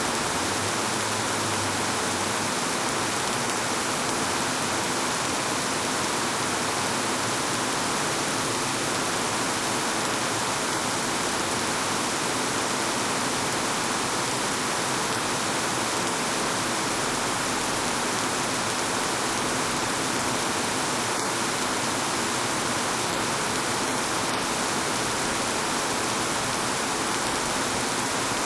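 Steady rainfall: an even, unbroken hiss of rain with a few faint drop ticks.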